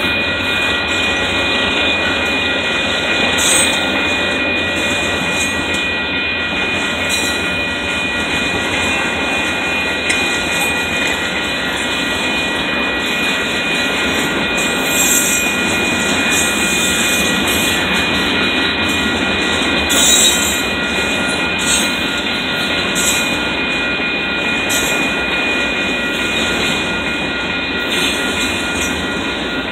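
Double-stack intermodal container cars rolling past at steady speed: a constant rumble of steel wheels on rail, with a few faint steady high-pitched tones over it.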